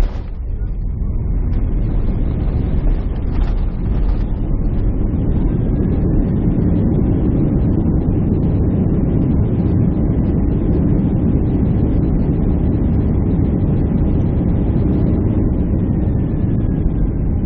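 Steady airliner cabin noise from a window seat: a constant low rush of jet engines and airflow.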